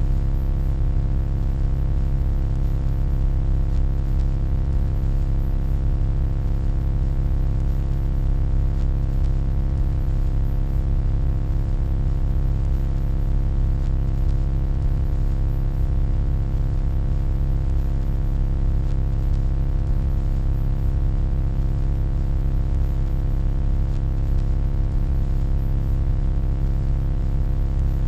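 Steady electronic hum: a deep, constant drone made of many fixed tones stacked over a low rumble, with no change.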